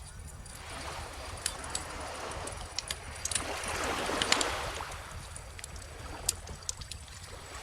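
Wood fire crackling with frequent sharp pops, over a small ocean wave washing in that swells to a peak about halfway through and then draws back.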